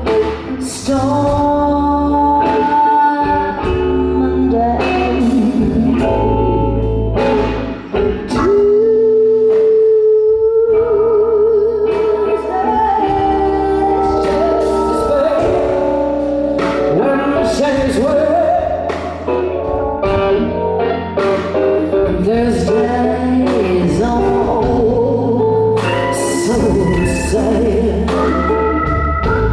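Live blues band playing a slow blues, with electric guitar over bass and a woman's voice singing. A long held note with vibrato stands out about 8 to 11 seconds in.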